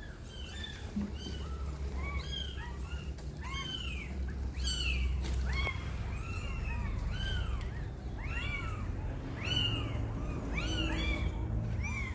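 Young kittens mewing over and over: many short, high-pitched mews from several kittens at once, overlapping and repeating a few times a second.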